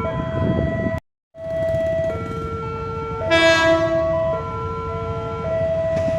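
Electronic level-crossing warning alarm sounding a steady two-tone chime that alternates about once a second. A train horn blasts for about a second, three seconds in. The sound cuts out briefly about a second in.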